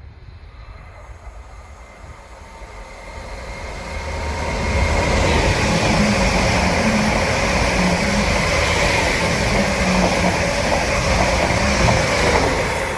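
A train passing through the station without stopping: it builds up over the first few seconds to a steady, loud rumble with a hum, then begins to fade near the end.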